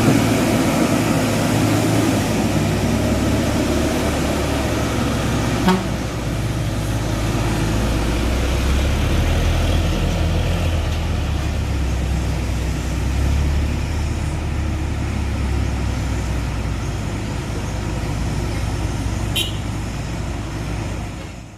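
Truck engine running steadily with a deep low drone, with a single sharp knock about six seconds in.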